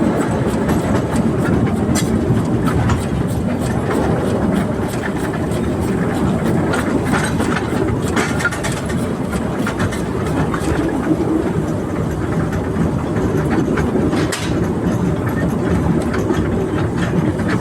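Narrow-gauge train running along the track: a steady rumble from the wheels, with scattered clicks and clatter over the rail joints.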